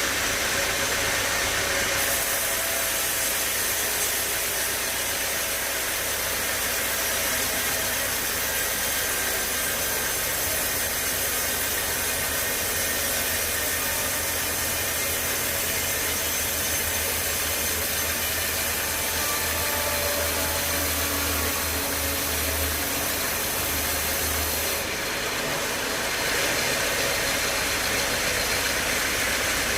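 Sawmill saw and its motor running steadily through a large log. The pitch of the cut shifts about two seconds in and again near the end, with a low engine drone swelling in between.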